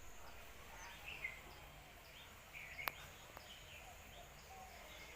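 Faint outdoor ambience: small birds chirping repeatedly over a steady high-pitched tone, with one sharp click about three seconds in.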